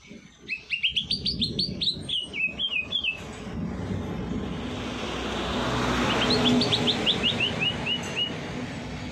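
A songbird singing two fast runs of about a dozen sharp chirping notes each, the first starting about half a second in, the second about six seconds in. Under them is a rushing noise that swells and fades between the runs.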